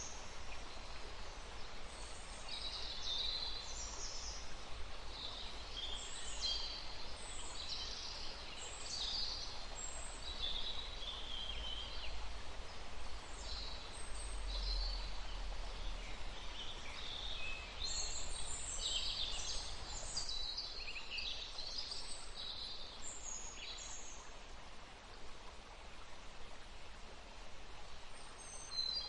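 Woodland ambience: many short bird calls and chirps over the steady rush of a stream, with a low rumble underneath.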